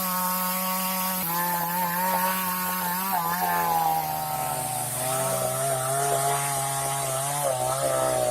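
Chainsaw engine sound effect running with a buzzing drone, its pitch wavering and dropping in steps.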